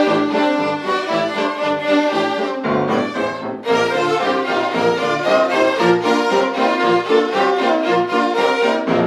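Ensemble of violins playing a lively piece in quick, short notes.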